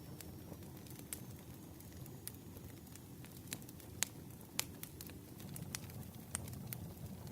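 Campfire crackling: a steady low rumble of burning wood with sharp pops scattered irregularly, the loudest about four seconds in and again just after.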